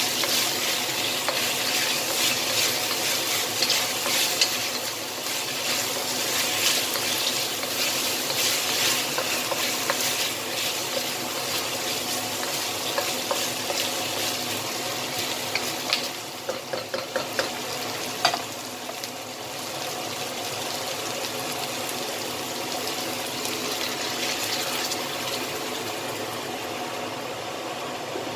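Chicken wings sizzling and crackling in hot oil in a wok while a wooden spatula stirs and scrapes them. About two-thirds of the way through come a few sharp knocks, after which the sizzle settles lower and steadier as the wings bubble in a sauce.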